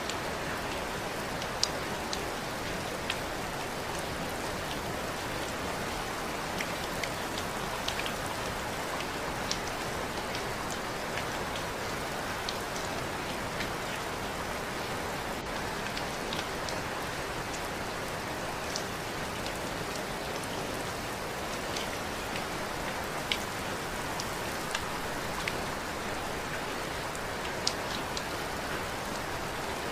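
Steady rain falling, with individual drops ticking sharply on a hard surface here and there among the even hiss.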